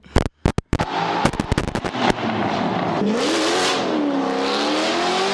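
Corvette C5's 5.7-litre V8 cranking in a quick stutter and catching within the first second, then running; its revs swell and dip about three seconds in before it settles into a steady idle.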